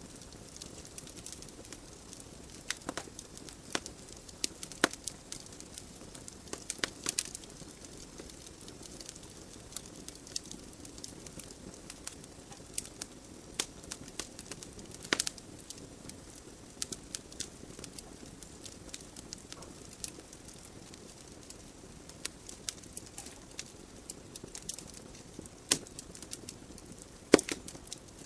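Wood fire burning in a fireplace: a steady low hiss of flame with irregular crackles and sharp pops from the burning logs, a few louder pops near the end.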